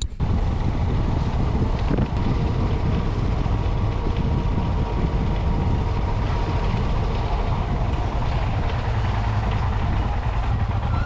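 Motorcycle running steadily on the road, its low engine rumble mixed with wind rushing over the microphone.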